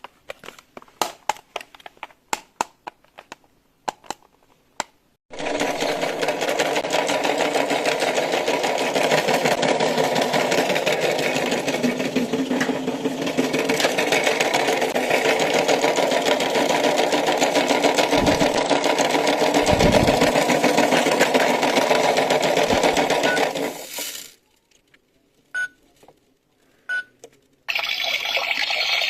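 Plastic toy pieces clicking and tapping for about five seconds, then a small motor running steadily for about twenty seconds before it stops.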